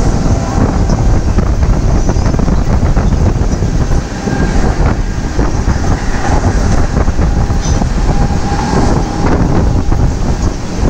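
Mumbai suburban electric local train running at speed, heard from its open doorway: a steady rumble with wheels clattering over the track.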